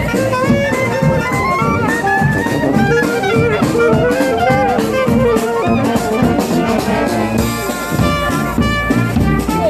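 Brass marching band playing a tune, horns carrying the melody over a drum beat.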